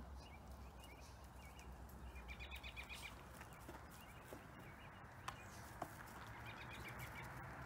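Quiet outdoor ambience with a low wind rumble, over which a small bird gives two short runs of rapid chirps, about two seconds in and again near the end. Two light clicks come a little after the middle.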